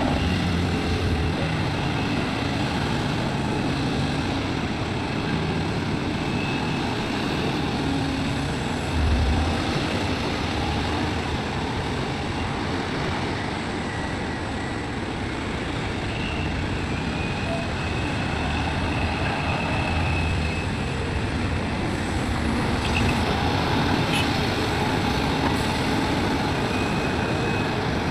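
Heavy diesel machinery of an excavator loading soil into a dump truck, running steadily, with faint high whines coming and going. A brief low thump about nine seconds in.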